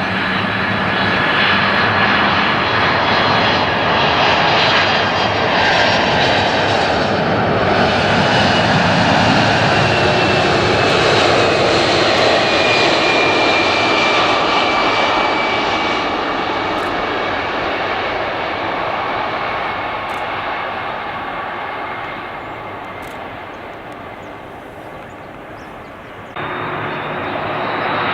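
Airliner engines passing overhead: a loud, steady rush of engine noise with a whine that slowly falls in pitch, fading away toward the end. Near the end the sound jumps abruptly back up to another loud aircraft engine noise.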